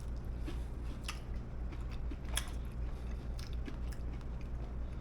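A person chewing breaded buffalo cauliflower wings, with scattered small crunches and mouth clicks over a steady low hum.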